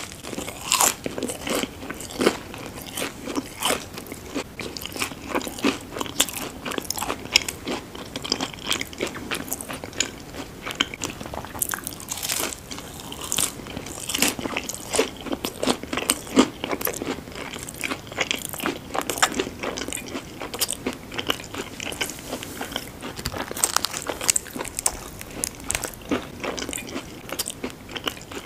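Close-miked chewing and biting of crispy fried food: irregular, crackly crunches in quick succession with wet mouth sounds between them.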